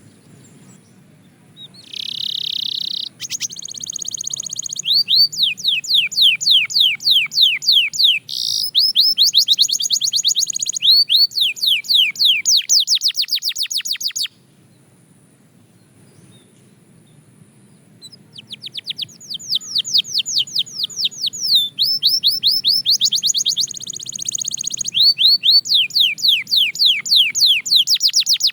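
Belgian canary singing: two long phrases of rapid, evenly repeated downward-sweeping notes, with a pause between them in the middle.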